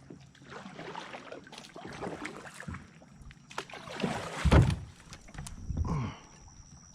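A kayak being worked through shallow water: irregular sloshing and splashing with knocks against the hull, and one loud low thump about four and a half seconds in.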